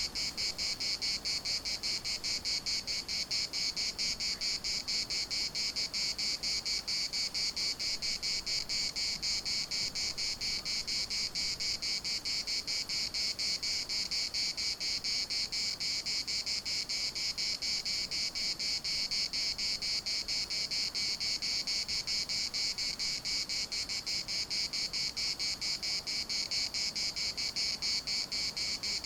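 Chorus of cicadas: a steady, high-pitched buzz made of fast, even pulses.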